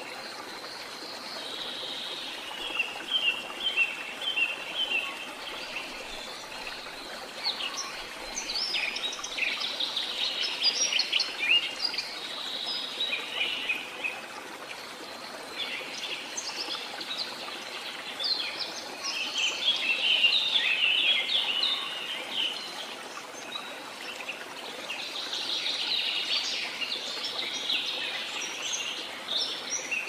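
Small birds chirping in bouts of quick, high calls, over a steady hiss.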